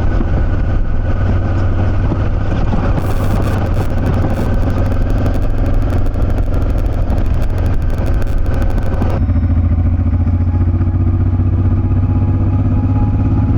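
Motorcycle engine running steadily while riding, heard loud and close with wind noise. A rapid crackle of fine clicks runs through the middle stretch and stops about nine seconds in.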